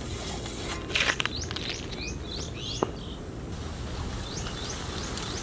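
A small bird chirping in two quick runs of short, high notes over a steady low background noise, with a few light clicks about a second in.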